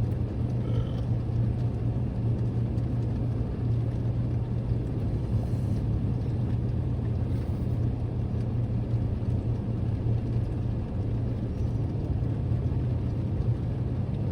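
Car running with a steady low hum and road noise.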